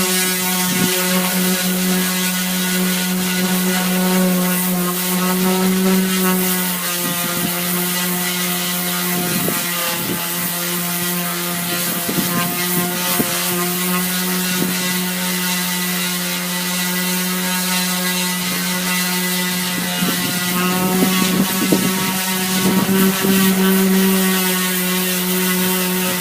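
Handheld 4.5-inch orbital sander with 60-grit paper running steadily against a fiberglass boat hull: a constant motor whine with rough scraping as the pad works the surface.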